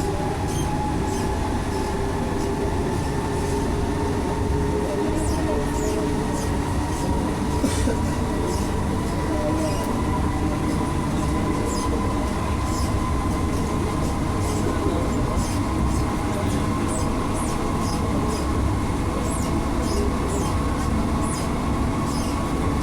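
Inside an Alstom NS-16 metro car running between stations: a steady rumble of wheels on rail, with a whine that climbs slightly in pitch and scattered light clicks.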